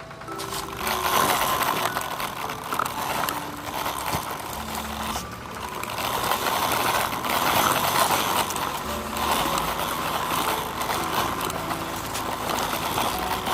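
Toy tractor and the toy vehicle towing it, rolling over the ground: a steady, rattly noise of small wheels and plastic parts, full of little clicks.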